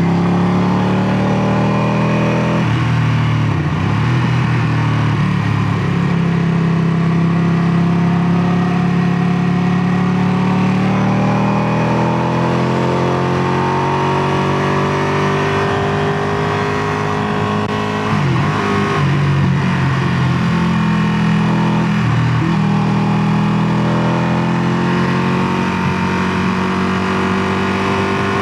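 Ducati Panigale 959's Superquadro V-twin engine running under way, its exhaust note rising and falling in pitch, with brief breaks in the note three times.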